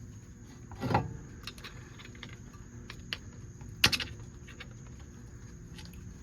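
Scattered light clicks and scrapes of a hand tool on a brake caliper while prying out an old gasket, with a louder knock about a second in and a sharp click near four seconds.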